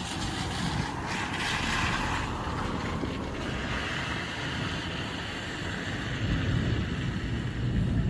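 Rain falling in a storm, with gusting wind buffeting the microphone as a low rumble; the hiss of the rain swells louder for a couple of seconds about a second in.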